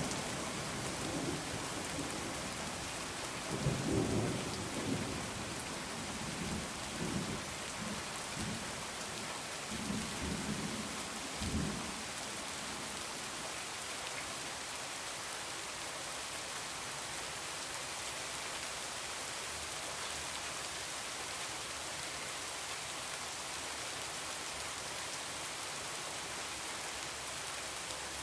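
Heavy rain falling steadily, with thunder rumbling in low swells through the first dozen seconds before it dies away.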